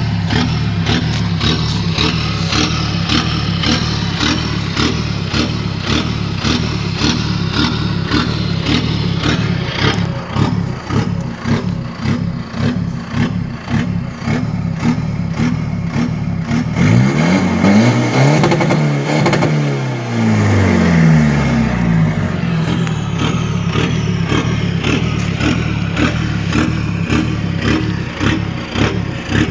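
Vehicle engine running with an unsteady, surging ('หอบ', panting) idle, its loudness wavering, typical of an engine hunting at idle. About two-thirds of the way through, the engine speed rises and falls back once.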